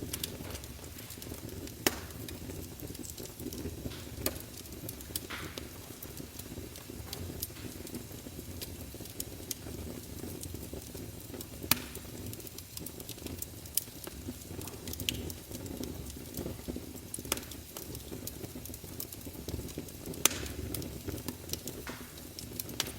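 Log fire burning in a fireplace: a steady low rumble of flames with scattered sharp crackles and pops, the loudest about two, twelve and twenty seconds in.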